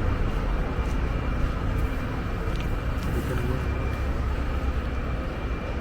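Steady street noise outdoors: a low rumble of passing road traffic.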